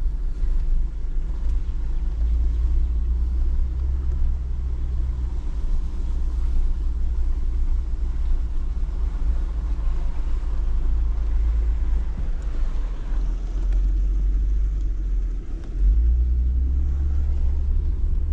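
Jeep driving slowly over a rough, washed-out dirt road: a steady low rumble of engine and tyres, dipping briefly near the end.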